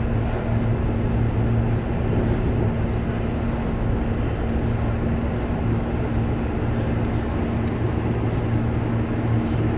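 Electric commuter train running along the track, heard from inside its front cab: a steady rumble of wheels and running gear with a steady low hum.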